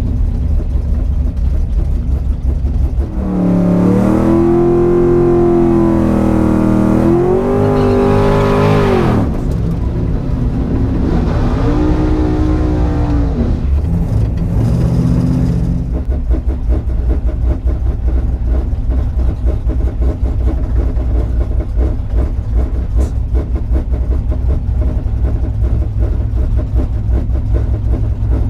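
Fox-body Mustang's 5.0 V8 idling with a low rumble, then revved up hard about three seconds in and held high for several seconds before dropping off. It is blipped up again briefly, then settles back to a steady idle for the rest.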